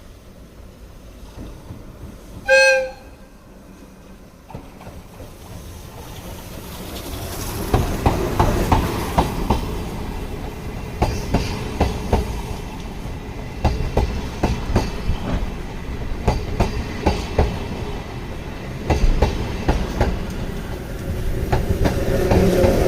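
A single short horn toot about two and a half seconds in. From about six seconds in comes the running sound of an N-scale model ED31 electric locomotive train, growing louder, with irregular clicks as the wheels pass rail joints.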